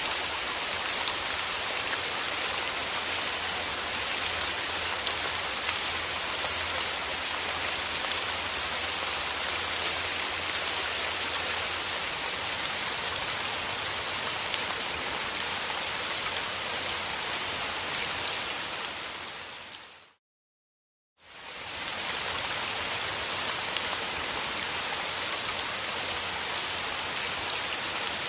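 Steady rain falling, a dense hiss of drops pattering on surfaces. About two-thirds of the way through it fades out to a second of silence and fades back in.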